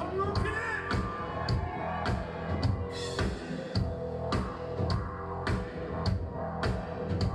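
Rock music from a band with drum kit and electric guitar, the drums hitting a steady beat about twice a second.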